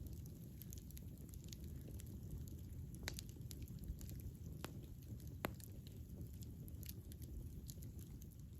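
Wood campfire burning with a low steady rumble and irregular crackles and pops, including a few sharper snaps in the middle.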